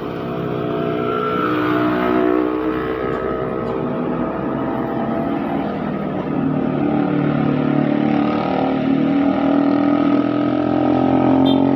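Truck engine running steadily as it passes through a road bend, growing louder and loudest near the end.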